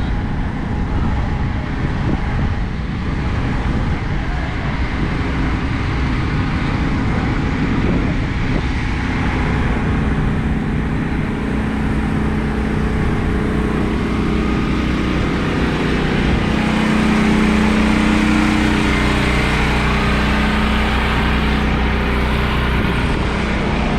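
Car engines running at low speed as cars pull into the lot, a steady rumble that swells somewhat about two-thirds of the way through as one vehicle draws closer.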